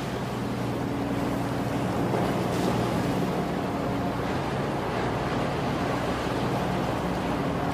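Car ferry's engines humming steadily under a constant wash of wind and water noise.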